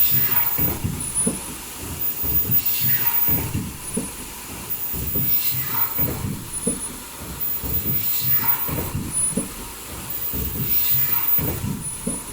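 Automatic foldable N95 mask production line running in a repeating cycle of about 2.7 s. Each cycle has a dense clatter of mechanical knocks, a hiss that falls in pitch, and short, very high-pitched tones.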